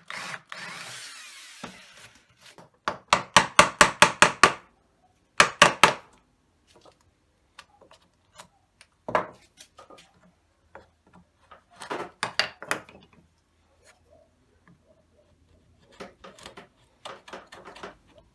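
Hand tool working wood in bursts of quick back-and-forth strokes, about five a second, with pauses between the bursts.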